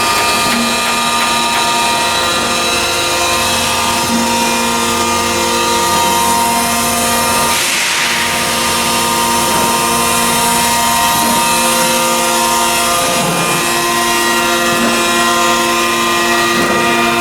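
Chevalier 1628AD surface grinder running, its motors giving a steady hum of several tones. There is a brief rushing hiss about eight seconds in.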